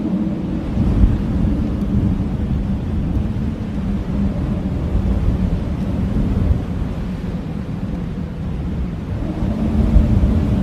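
Strong blizzard wind blowing in low, gusty swells. A low howling tone is heard at the start and returns near the end.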